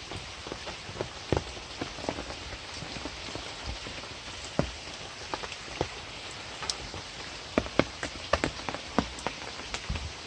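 Light rain falling: a steady hiss of rain with individual drops tapping close by, coming more thickly about seven seconds in.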